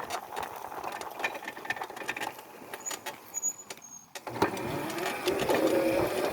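Razor electric dirt bike being ridden, rattling over rough ground with many clicks. About four seconds in, its motor and chain whine rises in level and holds, wavering slightly in pitch.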